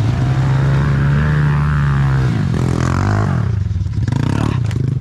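Pit bike engine running under throttle on a trail. Its pitch holds steady, then dips and climbs again about halfway through. A few sharp clattering knocks come near the end.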